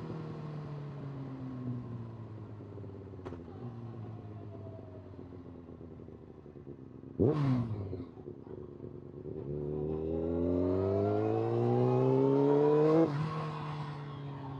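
Honda CBR 600 inline-four engine under way: the revs fall off slowly, then jump in a sharp, loud burst about seven seconds in. From about nine seconds the engine pulls hard with a steadily rising pitch until an upshift drops the revs abruptly near the end.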